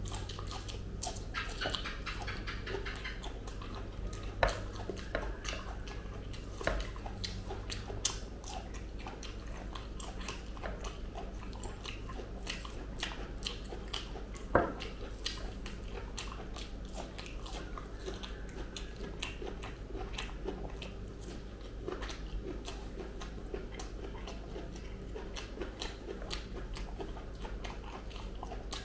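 Close-up chewing and biting of soft, ripe jackfruit bulbs: a run of small wet mouth clicks and smacks throughout, with a few sharper clicks standing out.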